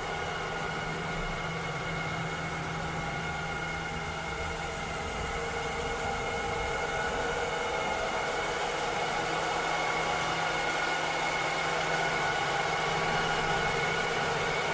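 Cleaning robot running steadily: a motor whir with several steady tones over a fan-like hiss, growing slightly louder about halfway through.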